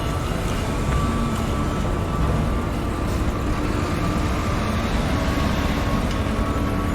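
Heavy construction machinery running steadily: a dense, unbroken engine rumble with a faint thin whine over it.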